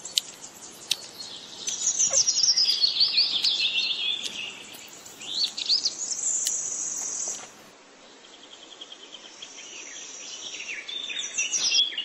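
Birds chirping and singing: quick high chirps and short trills, many sweeping downward, in several runs, over a faint steady hiss. About two-thirds of the way through it thins to a softer run of quick even pulses before the chirping picks up again near the end.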